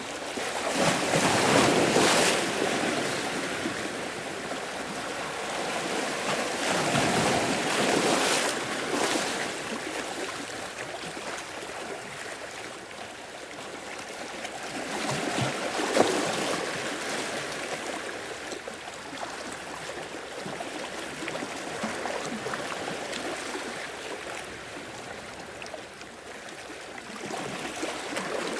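Ocean waves washing onto the shore in a steady hiss, swelling as a few waves break, with one sharper splash about sixteen seconds in.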